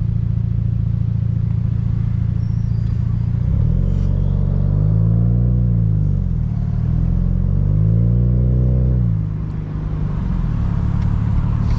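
Car engine running while driving, a steady low drone whose pitch twice rises and falls as it revs up and eases off, about four seconds in and again about seven seconds in.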